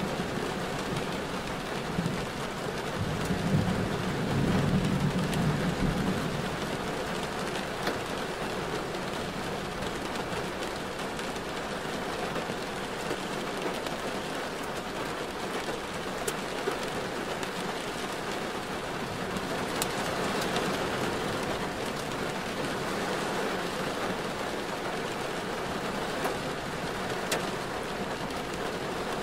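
Rain pattering steadily on a moving car, with wet-road noise, scattered sharp drop ticks and a low rumble that swells a few seconds in.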